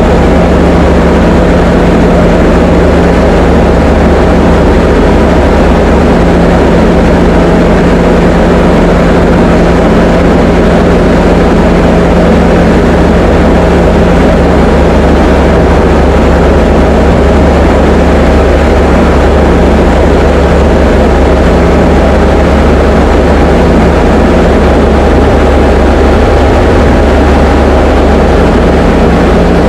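Diamond DA20 light aircraft's piston engine and propeller running steadily, a loud unchanging drone with a constant hum.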